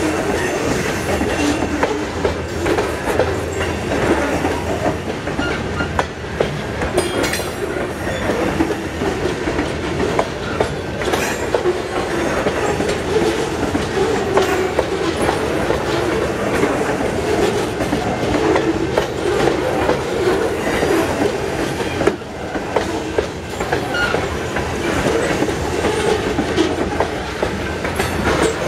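Loaded covered hopper cars of a freight train rolling past, their steel wheels clicking over the rail joints in a steady rumble.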